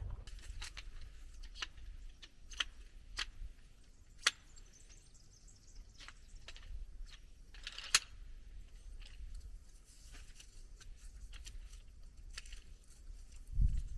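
Irregular clicks and light clinks of camping gear being handled, the sharpest about four and eight seconds in, over a low steady rumble.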